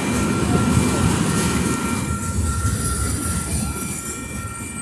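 Train rolling past at a railroad crossing: a loud rumble of the cars on the rails, strongest about a second in and easing off toward the end, with a thin steady high-pitched tone running through it.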